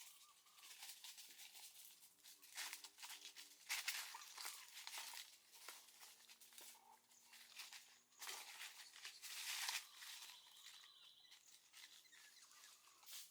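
Faint, irregular rustling and scraping, like material being handled or crumpled.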